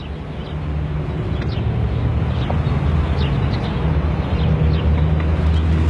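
A car engine running steadily, its hum growing gradually louder, with short high chirps over it.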